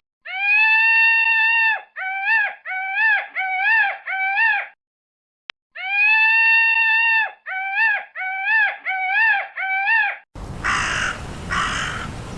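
Animal calls. A long, high, clear call is followed by five short ones, and after a pause the same sequence repeats. Near the end a different, harsher animal gives two rough calls.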